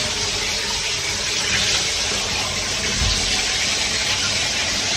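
A steady, loud rushing noise with no break, like water running hard from a tap or a strong blower.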